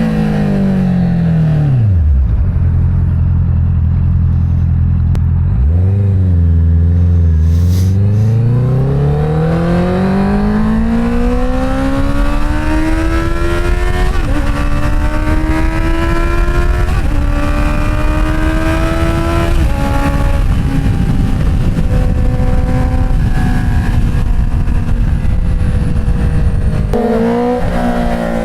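Inline-four car engine and exhaust: it slows down to a low idle, holds there for a few seconds with one short blip, then pulls away, pitch climbing through three gear changes that each drop the pitch suddenly. It then settles into a steady cruise with the pitch slowly sinking, and picks up again near the end.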